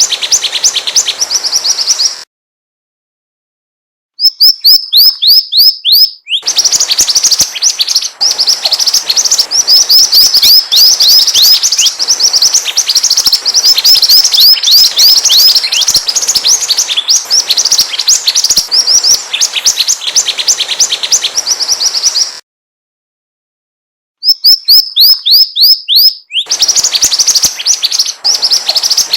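Mantenan birdsong from a lure recording: fast, continuous high chirps, many of them quick downward sweeps, broken twice by about two seconds of dead silence, once a couple of seconds in and again about 22 seconds in.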